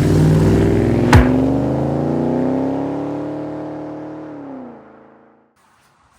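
A car engine revving, its pitch climbing for about two seconds, then holding and sinking as it fades away about five seconds in, with one sharp hit about a second in.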